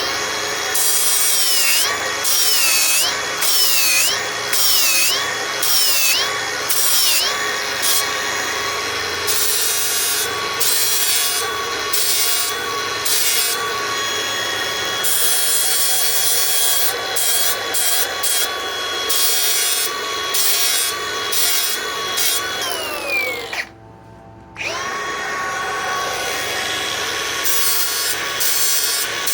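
Milwaukee M18 Fuel 3672-20 cordless angle grinder grinding a solid billet: a high motor whine over a grinding hiss. The whine dips in pitch several times in the first few seconds as the disc bites under load, then runs steady. Near the end the grinder winds down and stops for about a second, then starts again and keeps grinding.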